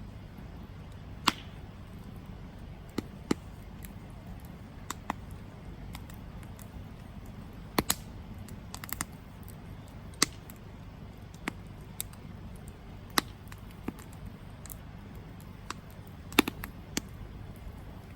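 Campfire burning: sharp wood crackles and pops at irregular intervals, a couple of them close together, over a low steady rush of flame.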